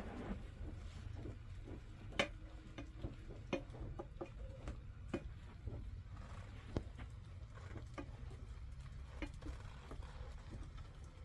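Scattered light clicks and taps of utensils against dishes during a meal, irregularly spaced, over a steady low rumble.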